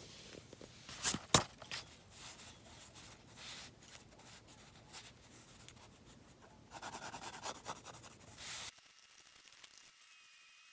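Drawing tool scratching across sketchbook paper in short strokes, with two sharp taps about a second in and a burst of quick back-and-forth scribbling near the end, which then stops abruptly.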